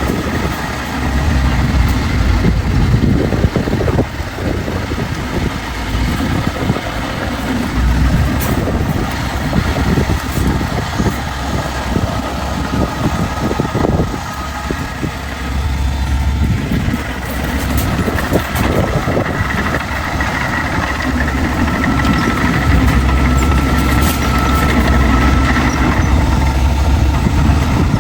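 Heavy diesel earthmoving machinery running, its engine level swelling and easing as it works. A thin steady whine joins in for a few seconds near the end.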